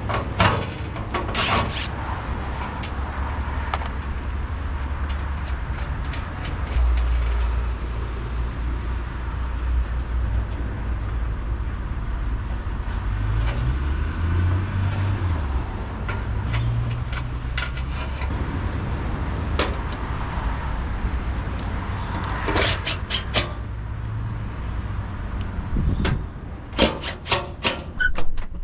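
A vehicle engine running steadily, its pitch rising and falling for a few seconds midway as it is revved or worked. Several sharp clicks and knocks come near the end.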